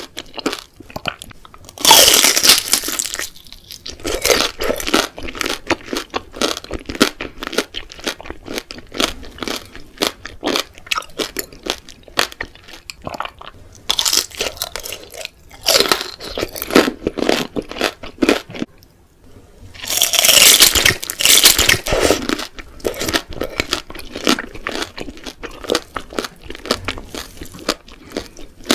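Close-miked bites into crispy battered deep-fried food: loud crunching spells about two, fifteen and twenty seconds in, with steady crisp chewing between.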